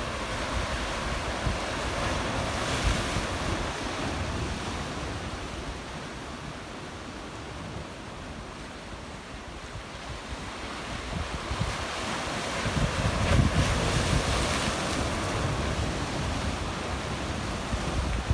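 Black Sea waves splashing on a rocky shore, surging up twice and easing off between, with wind buffeting the microphone.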